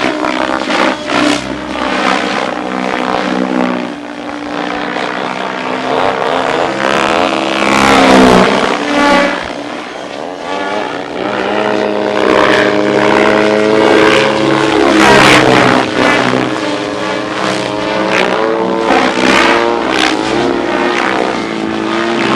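3D aerobatic RC helicopter in flight: the rotor and drive whine shifts up and down in pitch as it manoeuvres, over a steady whoosh of the blades.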